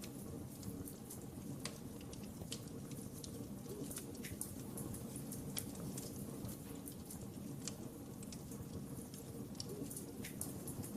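Wood fire crackling in a fireplace: a low steady rumble of burning with irregular sharp pops and snaps scattered throughout.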